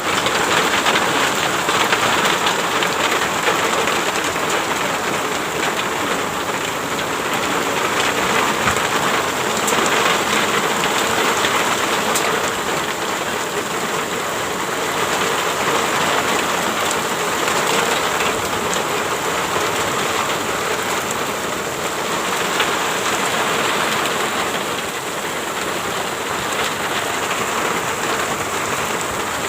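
Steady heavy rain falling, a continuous hiss with scattered drop ticks.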